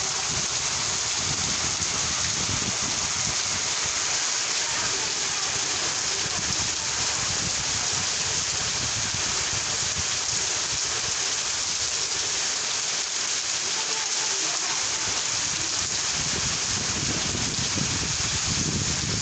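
Steady rain falling, an even unbroken hiss with no thunder claps.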